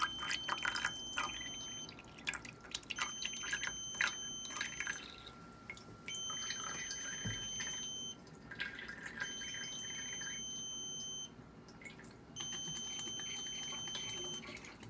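XP Aqua RODI Flood Guardian controller beeping: five long, steady, high beeps of about two seconds each, spaced about a second apart. The beeps signal that the water has reached the float sensor and the solenoid valve has shut off the product water.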